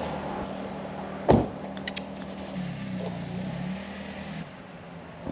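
A car's engine running at idle, with one loud thump a little over a second in and the engine note wavering up and down near the middle; the sound drops off abruptly about a second before the end.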